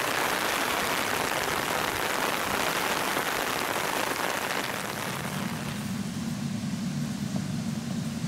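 Steady rain falling, an even hiss of rain on the ground and plants. About five seconds in the rain becomes quieter and a steady low hum comes in.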